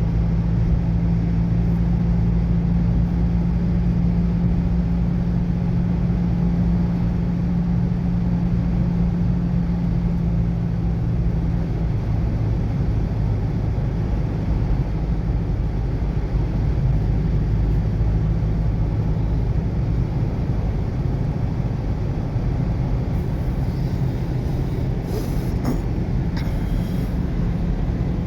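Car engine and road noise inside a moving car: a steady low drone with an engine hum that shifts slightly partway through, and a few faint ticks near the end.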